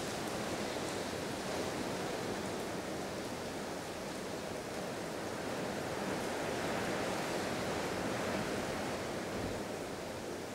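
Steady rushing of heavy rain and wind, with no thunder.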